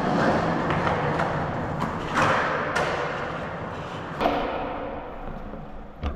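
Skateboard wheels rolling on concrete, with sharp clacks and thuds of the board at about two, three and four seconds in; the rolling noise fades away toward the end.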